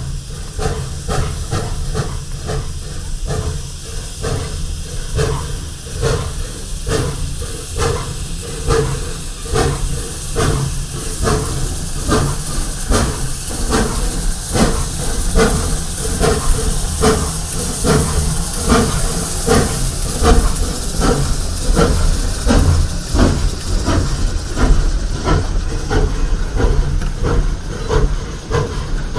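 Leviathan #63, a 4-4-0 steam locomotive, working under steam: exhaust chuffs at a steady beat of about two a second over a constant hiss of steam.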